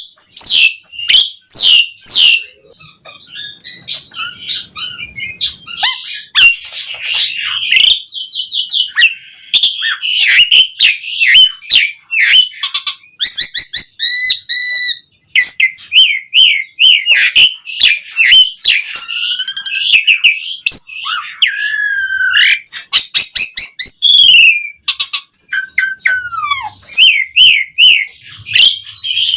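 Asian pied starling (jalak suren) singing a long, varied song of loud whistles, chirps, rapid trills and gliding notes, with a falling whistle near the end.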